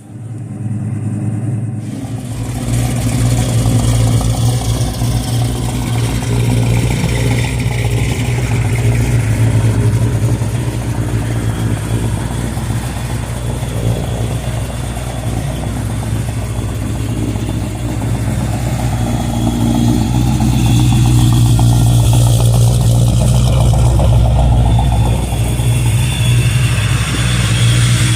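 Car engine running at a steady idle, loud and close, with a deep, even rumble.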